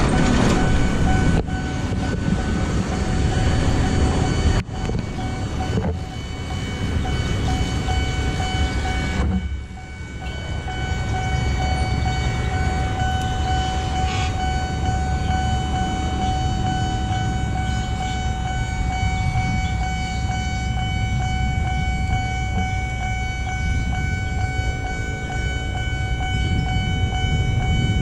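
Small rail track-recording car (KUJR) running on the track: a heavy, steady rumble of wheels on rail with a sustained high-pitched tone over it. The sound dips briefly a few times early on, then runs evenly.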